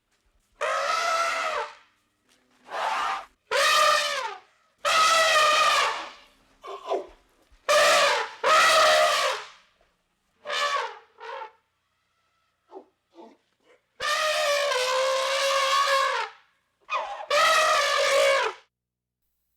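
Elephant trumpeting: a string of about ten brassy calls, each a second or so long with short pauses between them, one longer call of about two seconds past the middle.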